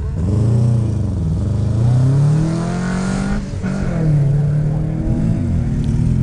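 Race car engine at full throttle around a time-trial course, its pitch rising under acceleration and dropping sharply at gear changes and lifts, with a clear break about three and a half seconds in.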